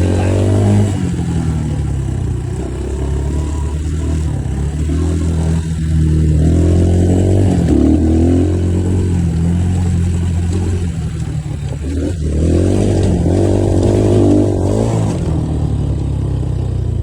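Dirt bike engine ridden slowly, its revs swelling up and dropping back as the throttle is opened and closed, with two longer rises about six and twelve seconds in.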